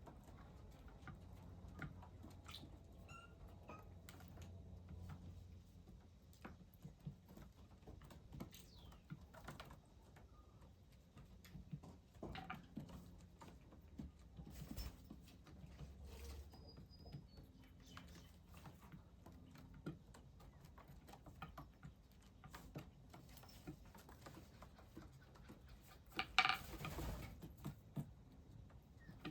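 Small birds at a feeder and bird bath: faint scattered pecking and pattering taps with a few short chirps, and a louder flurry lasting about a second near the end.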